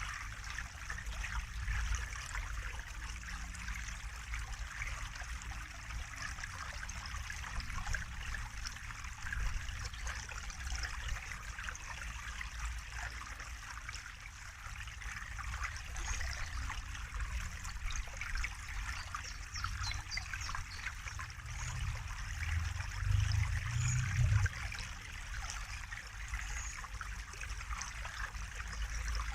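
Water trickling steadily, like a small stream, with a low rumble underneath that swells briefly about three-quarters of the way through.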